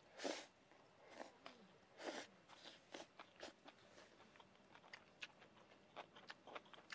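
Close chewing of crisp raw watercress: soft, irregular crunches. The two loudest come about a third of a second in and about two seconds in, followed by a run of small crackles.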